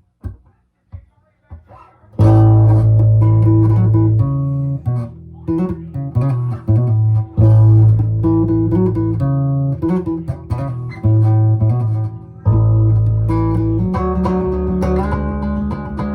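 Guitar playing. After a couple of seconds of faint taps, ringing chords with strong low notes start, changing in a slow repeating pattern.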